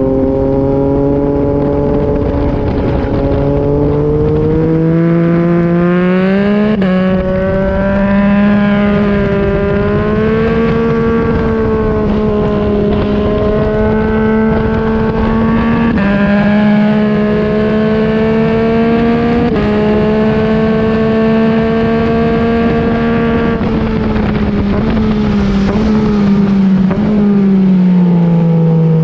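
2021 Yamaha MT-09's inline-three engine, breathing through an Akrapovic exhaust, pulling hard on track. Its pitch climbs with gear changes and holds at high revs, then falls away near the end as the bike slows, over the rush of wind.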